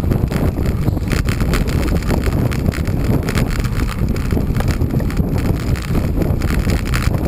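Wind rushing over the microphone of a cyclist riding at speed: a loud, steady low rumble, with a faint, rapid, irregular rattle over it.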